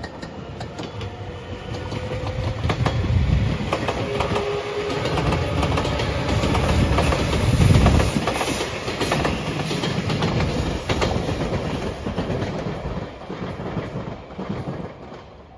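JR Shikoku 8000 series electric limited express train passing close by, wheels clacking over the rail joints. The rumble builds to its loudest about eight seconds in, then fades as the train moves away.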